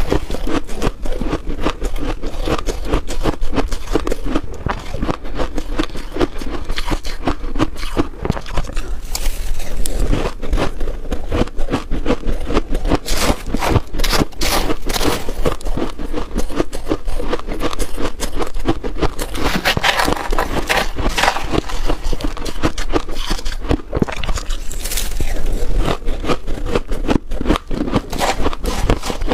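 Freezer frost being scraped and crunched close to the microphone: a dense, continuous crackling of scraping and bites into the packed ice.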